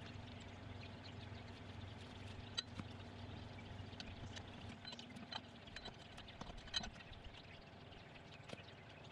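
Faint, irregular light clicks and taps over a low steady hum that fades about halfway through, with two sharper clicks, one about two and a half seconds in and one near seven seconds.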